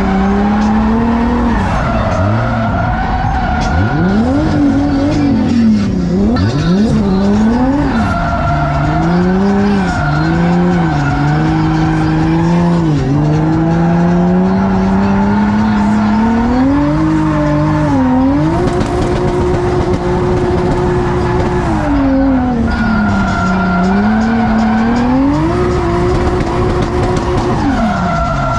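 A drift car's engine revving hard, its pitch rising and falling over and over as the throttle is worked, and held high for a few seconds about two-thirds of the way through, with tyres squealing and skidding.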